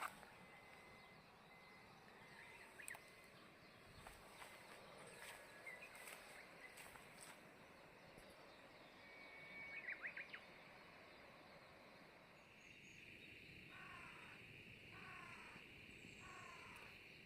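Near silence outdoors: faint, short bird chirps now and then, and from about three-quarters of the way through a faint steady high hum with soft repeated calls over it.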